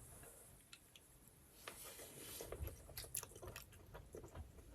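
Faint chewing of a bite of pancake, with soft, irregular mouth clicks that pick up after about a second and a half.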